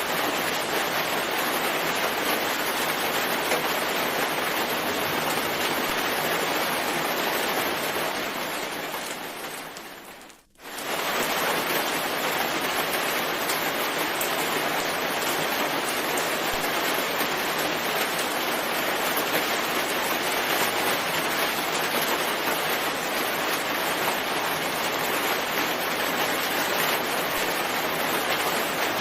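Steady, dense rainfall. About ten seconds in it fades down over a couple of seconds, cuts out for a moment and comes straight back.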